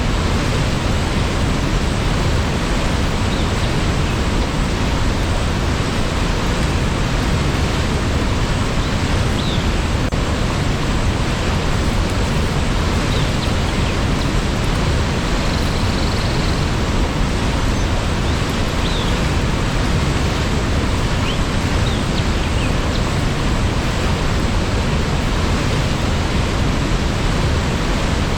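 Waterfall: falling water rushing in a steady, unchanging wash of noise, heaviest in the low end.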